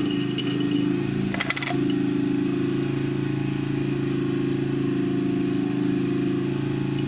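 Steady low engine-like hum, with a short cluster of clicks about one and a half seconds in.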